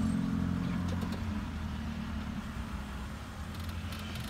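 A car engine running at low speed, a steady low hum that eases off slightly over the first couple of seconds.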